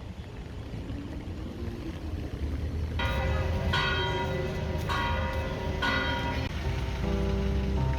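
Bells struck four times, about a second apart, each ringing on, over a low outdoor rumble. Steady pitched music tones come in near the end.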